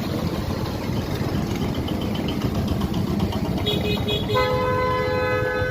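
Road traffic running, with a vehicle horn sounding one long steady honk from about two-thirds of the way in.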